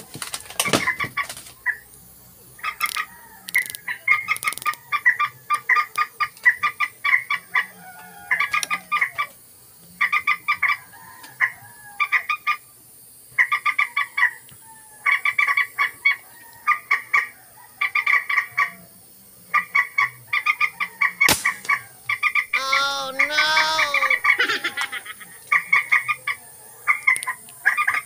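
Birds calling in bursts of rapid, repeated clucking notes, again and again, with one longer call that rises and falls in pitch about two thirds of the way through. There is a single sharp click a little before that.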